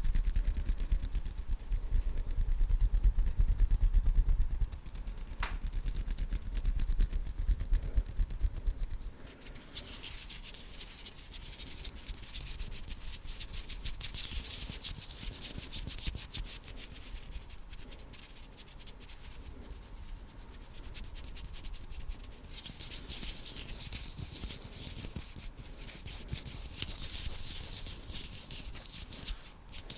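Bare hands rubbing and brushing close to the microphone. For about the first nine seconds the strokes are louder and deeper; after that it turns to a quieter, hissing rub of palms and fingers.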